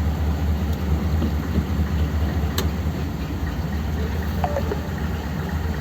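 1957 Ford Thunderbird's V8 idling steadily, with a single sharp click about two and a half seconds in.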